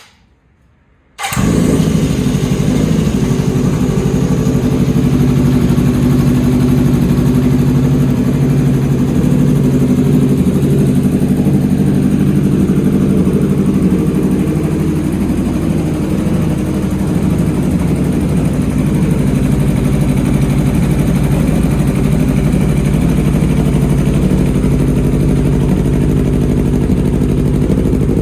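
Honda CB1100F motorcycle's air-cooled inline-four engine starting: a click, then about a second later the engine catches at once and settles into a steady idle.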